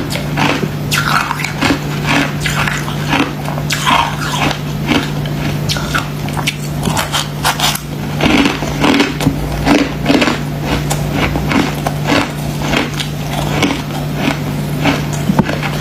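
Crunchy freezer frost being bitten and chewed up close, in a quick irregular run of crisp crunches, over a steady low hum.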